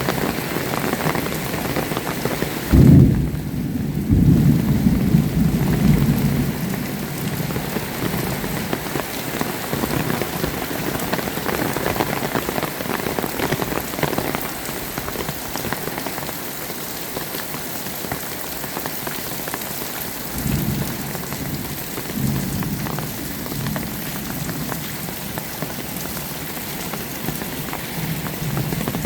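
Heavy rain falling steadily. Thunder breaks loudly about three seconds in and rumbles on for a few seconds, with fainter low rumbles later.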